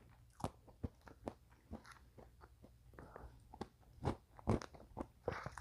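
Close-miked eating sounds: a person chewing a mouthful of mint chocolate-chip Blizzard ice cream, with irregular wet mouth clicks and smacks, a couple of louder ones about four seconds in.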